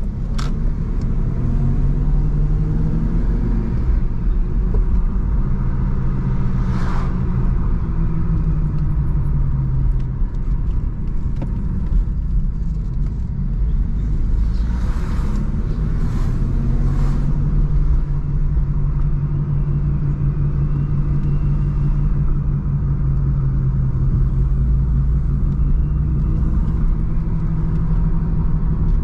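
BMW 316i E46's four-cylinder petrol engine running under way, with road rumble; the engine note holds steady, drops away about ten seconds in, then settles into a steady drone again. A few short whooshes come about seven seconds in and again around fifteen to seventeen seconds in.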